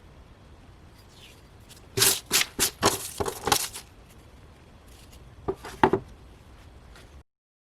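A quick run of sharp knocks or clicks, about half a dozen, then two more about two seconds later; the sound cuts off abruptly near the end.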